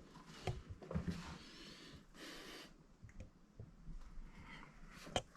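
Faint handling noises: scattered small clicks and knocks, with a brief rustle about two seconds in.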